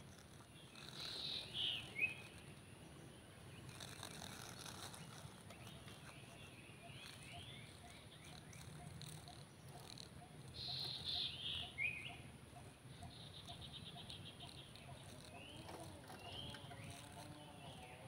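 Outdoor ambience with birds calling: a short phrase of notes falling in pitch sounds twice, about a second in and again near the middle, over fainter scattered chirps and a brief rapid trill.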